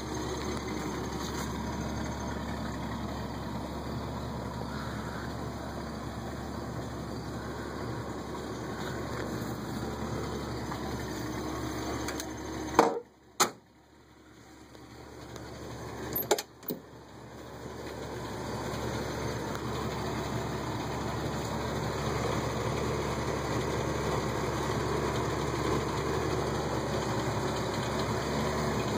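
A 1978 Ford Fairmont wagon's engine idling steadily. About halfway through come a few sharp knocks, after which the idle drops away briefly and then comes back.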